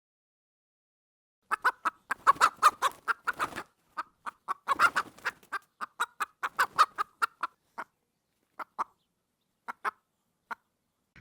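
An animal's rapid series of short calls, in two dense runs of several calls a second, then a few scattered single calls.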